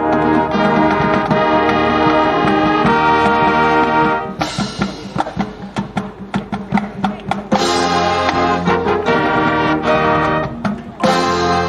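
Marching band playing: the brass section holds loud chords, then drops out for about three seconds of percussion hits before the brass comes back in with sustained chords.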